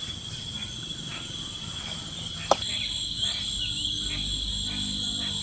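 Steady high-pitched trilling of insects in the forest, with a single sharp click about halfway through.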